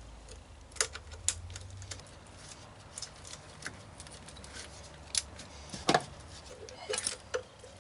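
Scattered clicks and light metallic knocks of hand tools and parts being handled while working on a car engine, the loudest a little before six seconds in.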